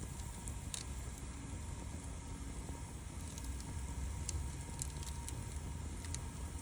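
Wood fire crackling, with a few sharp pops scattered through, over a steady low rumble.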